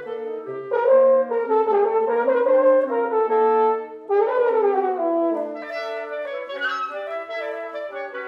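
Wind quintet (flute, oboe, clarinet, French horn and bassoon) playing together in overlapping, held and moving lines. The sound drops briefly about four seconds in and the ensemble comes back in with a swelling phrase.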